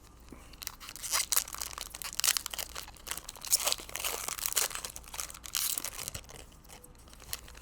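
Plastic trading-card pack wrapper crinkling and tearing as it is ripped open by hand, a run of crackles from about a second in until near the end.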